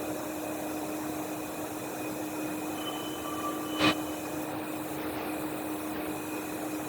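70x70 A-B plastic film extruder running with a steady mechanical hum, with a single sharp knock a little past the middle.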